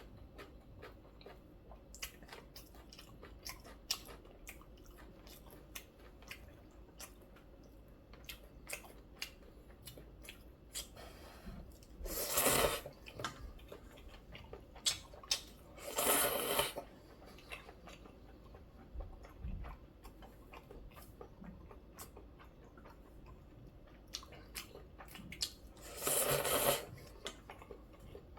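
Close-miked eating of noodle soup: steady chewing with small wet mouth clicks, broken by three loud slurps of about a second each, one near the middle, one a few seconds later and one near the end.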